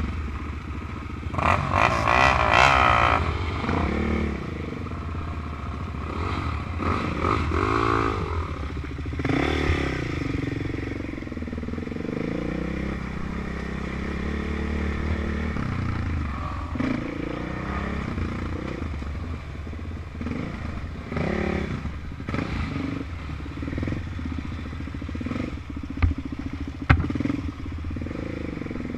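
Engines of off-road quads and dirt bikes running, revving up and easing off again and again, with two sharp knocks near the end.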